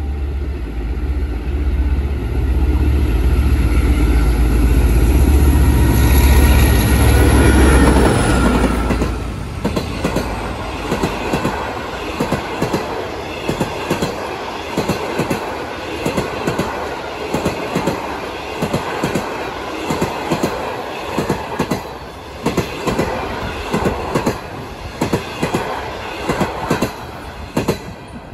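A diesel locomotive passes close by, its engine running with a deep drone and a high whine that fall away about nine seconds in. Its train follows, the wheels clacking steadily over the rail joints in quick pairs.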